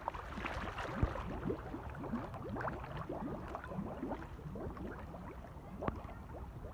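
Swimming-pool water sloshing and gurgling close by, with small splashes; a sharper splash comes about a second in and another near the end.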